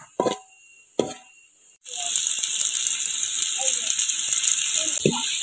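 A few brief knocks, then, about two seconds in, a steady sizzle of chicken masala frying in a metal pot starts abruptly.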